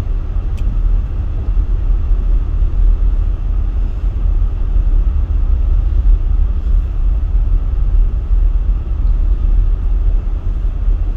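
Steady low rumble of a car driving on a snow-covered road, heard from inside the cabin, with engine and tyre noise. There is a brief click about half a second in.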